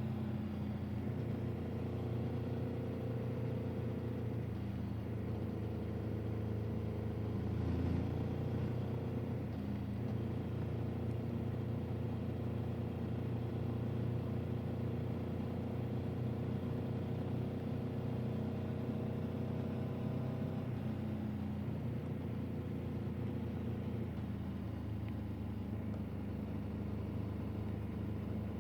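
A motor vehicle's engine running steadily, its pitch shifting a little every few seconds as the engine speed changes.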